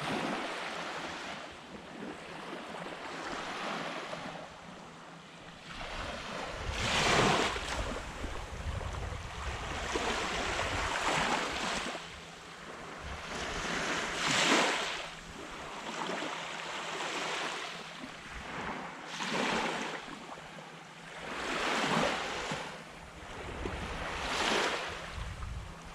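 Small waves breaking and washing up the beach, swelling every few seconds, with wind rumbling on the microphone at times.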